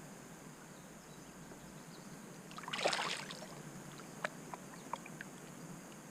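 Faint outdoor ambience on a fishing kayak on the water, with a brief burst of noise about three seconds in and a few light clicks and taps after it.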